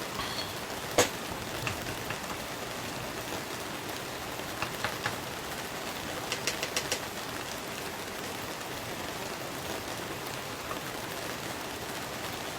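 Steady heavy rain falling. A single sharp click comes about a second in, and a quick run of five or six light clicks about halfway through.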